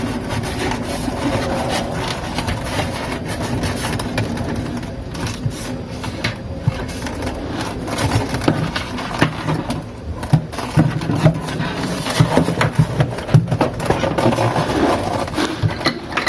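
Hands working on a refrigerator's plastic interior parts and wiring: a steady run of small scrapes, clicks and knocks.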